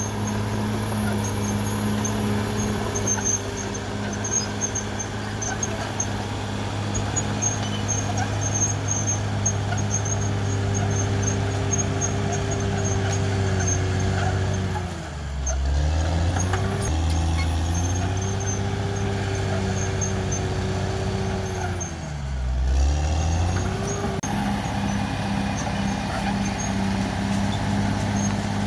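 Caterpillar D6R XL bulldozer's diesel engine running steadily under work, with a high whine riding on it. About halfway through and again about two-thirds in, the engine speed dips briefly and then picks back up.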